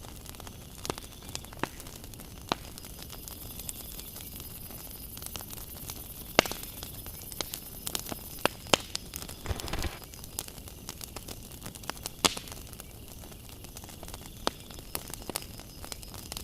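Fire crackling, with scattered sharp irregular pops over a low steady hiss, and a short rushing noise about nine and a half seconds in.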